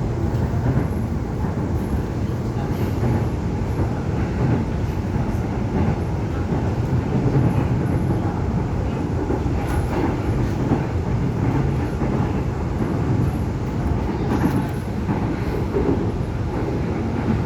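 Steady rumble of a Korail Seoul Subway Line 1 electric commuter train heard from inside a passenger car while it runs, with a few faint knocks from the track.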